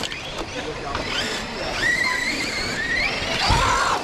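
Radio-controlled off-road race cars running, their electric motors whining with a pitch that rises and falls as the drivers work the throttle.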